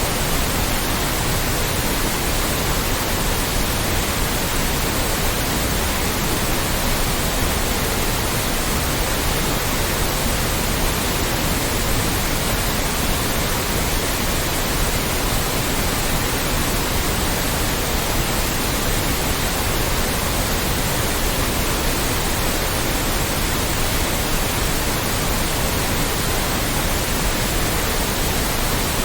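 Steady, loud white noise: an even hiss across all pitches that does not change.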